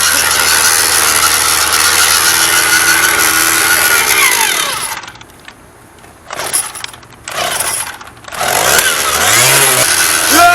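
A loud motor-driven tool runs with a steady hum, then cuts out about four and a half seconds in. It comes back in short bursts and starts up again near the end, its pitch rising as it speeds up.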